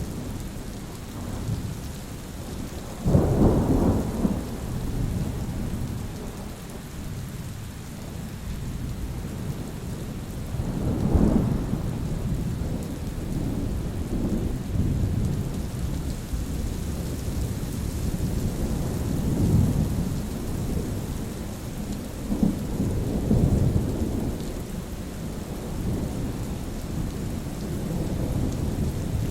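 Steady rain falling, with thunder rumbling on and off throughout: a sudden loud clap about three seconds in, another strong peal about eleven seconds in, and lower rolling rumbles after.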